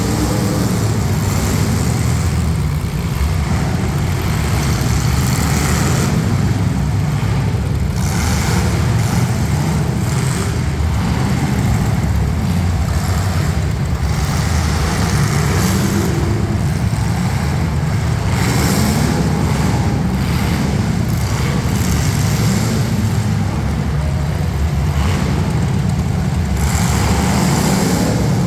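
Several demolition derby street stock cars' engines running together, with some revving.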